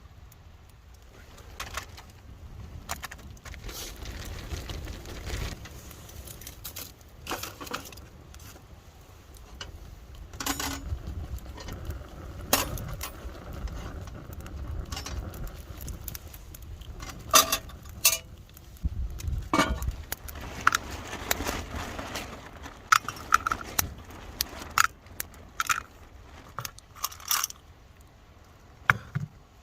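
Irregular clinks and clatter of metal camp cookware being handled, with scattered sharp knocks, some ringing briefly.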